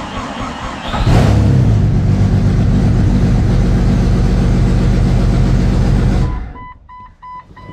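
Newly built 4.6-liter stroker inline-six in a Jeep Cherokee XJ being cranked and catching about a second in on its first start, then running loud and steady. The engine sound cuts off about six seconds in, leaving a faint repeated beeping.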